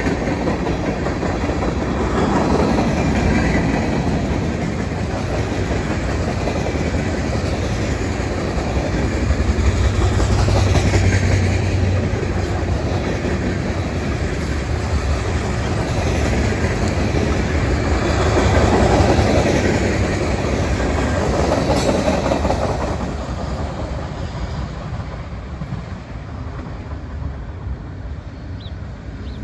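Freight cars of a mixed freight train rolling past, their steel wheels running on the rails, dying away over the last several seconds.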